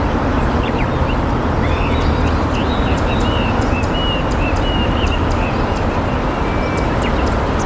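Steady rushing of river water, with small birds chirping faintly and repeatedly above it.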